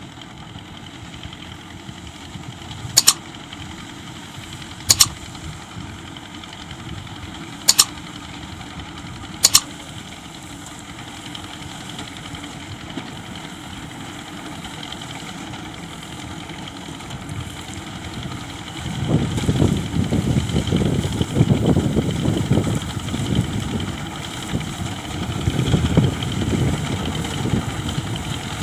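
Tractor diesel engine running steadily, growing louder and rougher about two-thirds of the way in. Four sharp clicks come early, spaced a couple of seconds apart.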